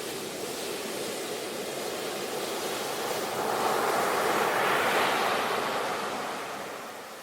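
Ocean waves washing onto a beach: a steady surf hiss that swells as a wave breaks about four to five seconds in, then recedes.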